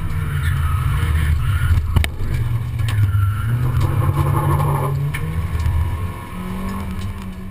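Honda Civic race car engine heard from inside the cabin, revving hard with pitch rising and dropping between gear changes, and a sharp knock about two seconds in. Near the end the engine note drops and settles to a lower, quieter steady tone.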